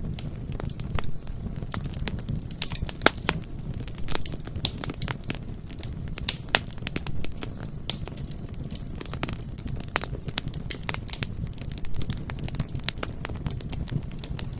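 Bonfire burning with a steady low rumble and frequent irregular crackles and sharp pops of burning wood.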